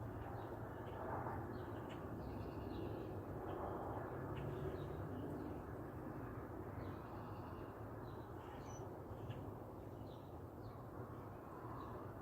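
Birds calling now and then, a few short harsh calls among them, over a steady low rushing noise.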